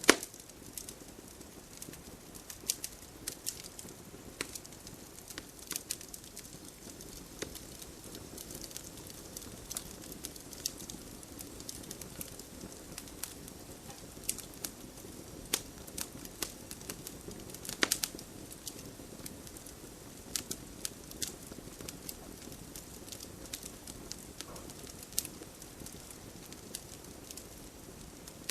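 Wood campfire crackling: irregular sharp pops and snaps over a steady low hiss of burning, with a few louder pops, notably about two-thirds of the way through.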